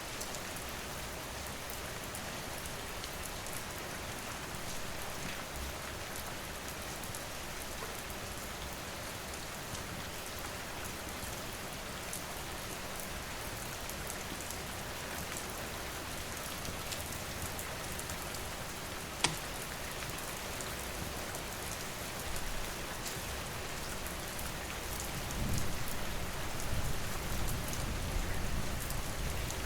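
Steady rain falling, with scattered sharp crackles and pops from a wood fire, including one loud pop about two-thirds of the way in. A low rumble swells near the end.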